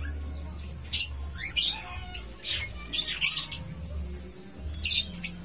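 Caged birds chirping and squawking in short, sharp, high calls, several in quick succession, over a steady low hum.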